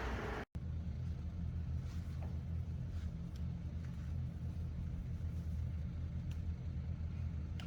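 A hiss cuts off abruptly about half a second in, followed by a steady low mechanical hum with a few faint clicks.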